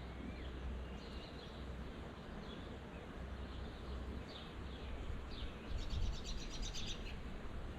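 Small birds chirping outdoors in short calls, with a quick trill of evenly repeated notes, about eight a second, near the end. A low rumble runs underneath.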